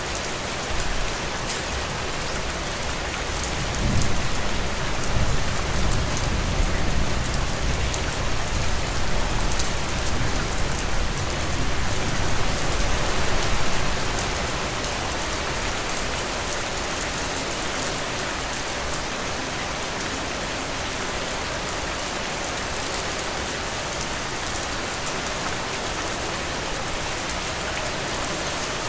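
Heavy rain falling steadily on a roof, an even, dense hiss. About four seconds in, a deep low rumble swells up under the rain and dies away around fourteen seconds.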